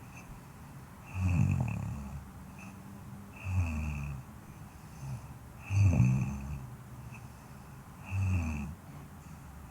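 Snoring, with four loud snores at an even pace, about one every two and a half seconds.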